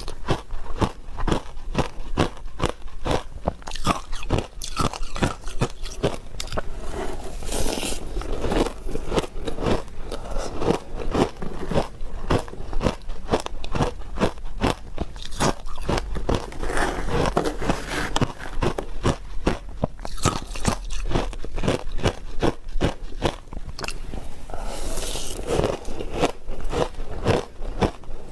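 Ice being bitten and chewed, with rapid crunching close to the microphone.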